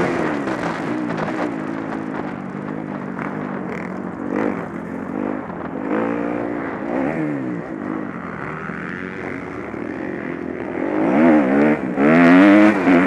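Motocross bike engines revving up and down through the gears, several at once, louder near the end.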